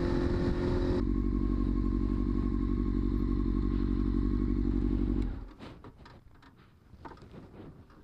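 Motorcycle engine idling steadily, with wind hiss dropping away about a second in. The engine is switched off a little after five seconds, leaving a few light clicks and knocks.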